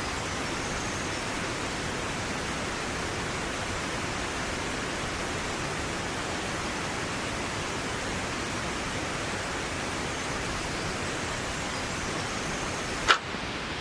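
Steady, even rush of water. About 13 seconds in there is a single sharp click.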